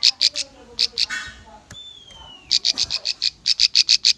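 Ciblek (prinia) song: runs of loud, sharp, rapidly repeated notes, about six a second, broken by a short buzzy note and a falling whistle.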